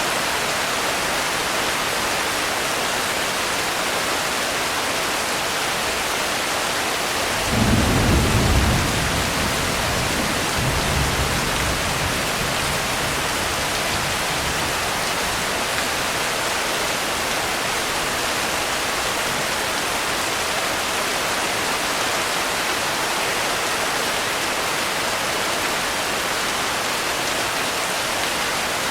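Steady heavy rain with a low rumble of thunder about seven seconds in, and a fainter rumble a few seconds after.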